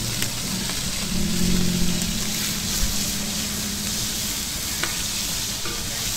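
Shrimp frying on a large, hot flat iron pan: a steady sizzling hiss, with a few sharp clicks of the metal spatula against the pan.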